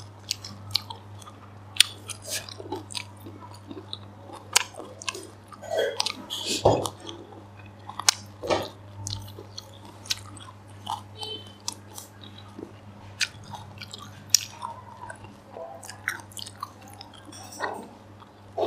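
A person chewing and biting a mouthful of prawns and rice close to the microphone: irregular sharp clicks and short crunches, over a steady low hum.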